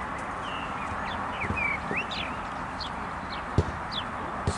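Small birds chirping in short, quick swooping notes over a steady outdoor background hiss, with two dull thumps near the end.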